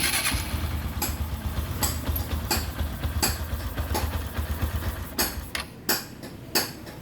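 A Honda Verza motorcycle's single-cylinder four-stroke engine is started and left idling. It runs as a steady low rumble with sharp clicks at fairly even spacing. It is a test run after reassembly, to check that oil is circulating up to the cylinder head.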